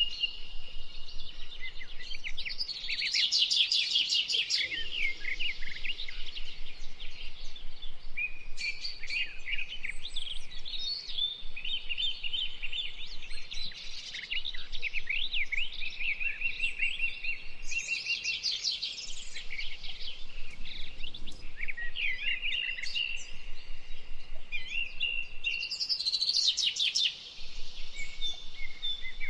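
Several songbirds singing and calling at once, a continuous chorus of overlapping chirps, trills and short whistled phrases.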